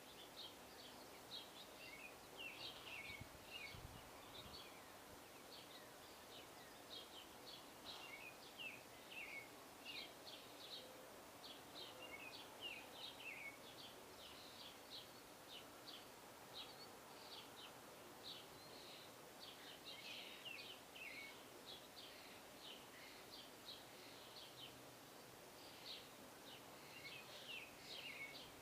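Small songbirds chirping faintly and almost without pause: many short, quick, down-sliding chirps, several a second, over a soft steady background hiss.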